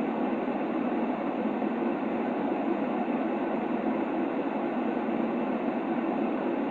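Steady, unchanging white-noise sleep sound for a baby: an even rushing hiss without rhythm or variation, more of a low-mid rumble than a bright hiss, with no deep bass.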